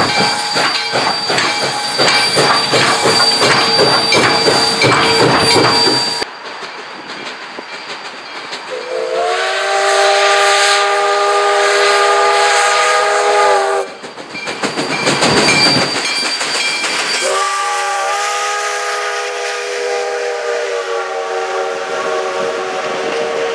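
Steam locomotive No. 28 working, with fast exhaust beats, hiss and rail clatter. Then two long blasts of its multi-note chime whistle, the first about nine seconds in and the second from about seventeen seconds in, fading slowly to the end.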